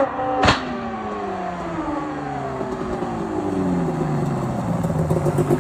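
Quad (ATV) engine whose pitch slides steadily down over several seconds as the revs fall during a stoppie, with one sharp knock about half a second in.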